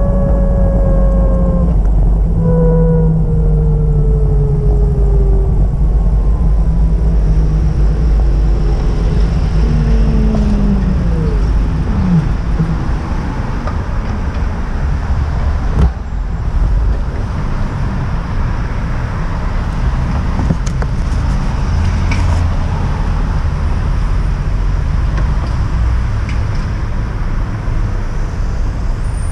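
Heavy motor vehicle running with a loud low rumble. A whine falls slowly in pitch over the first ten seconds or so, then drops off quickly.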